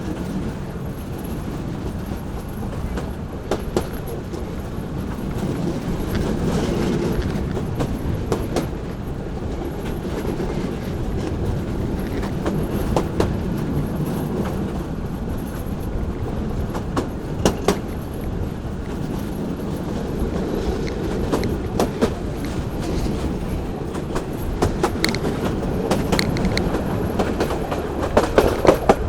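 Local train running on the rails: a steady low rumble broken by irregular sharp clicks and knocks from the wheels over rail joints.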